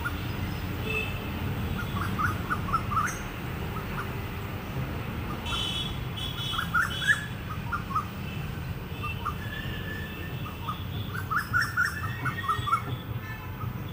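A bird calling in three bursts of quick, short chirps, over a steady low rumble.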